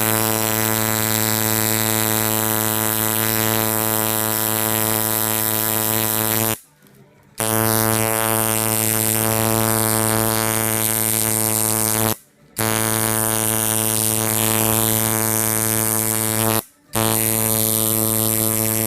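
Electric tattoo machine buzzing steadily while in use, stopping briefly three times between runs.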